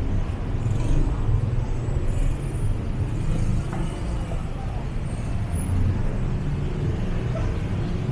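City street ambience: a steady rumble of road traffic, with passing vehicles and faint voices of people in the street.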